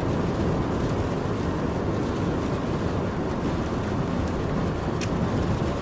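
Steady road and engine noise heard from inside a moving car, with a short click near the end.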